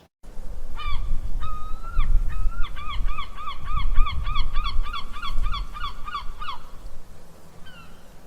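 Geese honking: a few spaced honks, then a fast run of about four honks a second for several seconds, over a low rumble.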